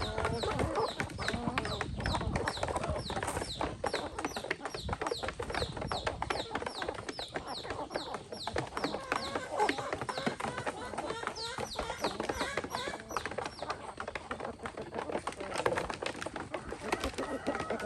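Free-range chickens clucking, over a steady run of short, high, falling peeps at about three a second that fade out near the end.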